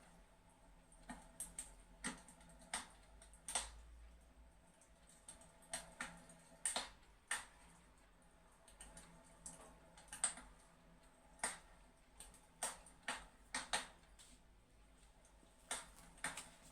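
Fireplace crackling: faint, irregular sharp pops, about one or two a second.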